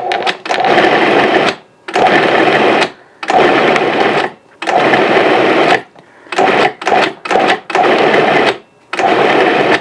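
Cuisinart 14-cup food processor pulsing semi-frozen chunks of chuck roast, its motor running in about eight short bursts of around a second each with brief pauses between, a few of them shorter and quicker, chopping the beef to a coarse grind.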